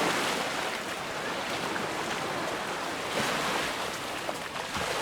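Surf washing onto a beach: a steady hiss of breaking waves that swells again about three seconds in.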